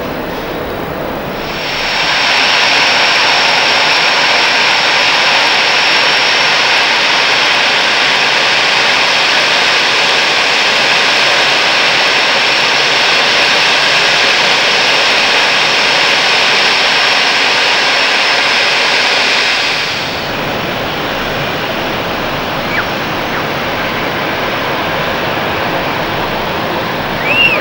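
Jet airliner engines running loud and steady, a dense hiss-like noise that begins abruptly about two seconds in and cuts off suddenly near twenty seconds, leaving a quieter steady rumble. A short high chirp near the end.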